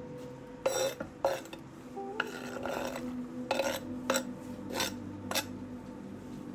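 Dishes and cutlery clattering: a handful of sharp clinks and knocks, with a short stretch of scraping about two seconds in, over soft background music.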